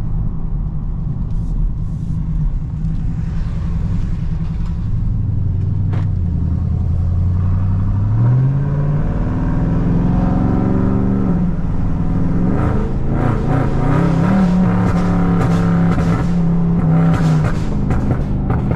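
Tuned Dodge Charger Scat Pack's 6.4-litre HEMI V8 accelerating. A low cruising rumble gives way, about five seconds in, to an engine note that climbs steadily in pitch, rises again and holds, then falls away near the end.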